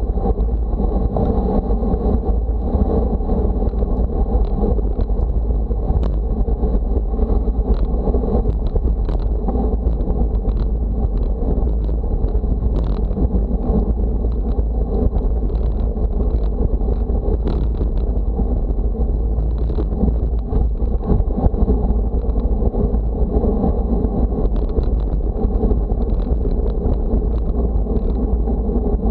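Wind buffeting the microphone, a steady heavy rumble with a few faint ticks.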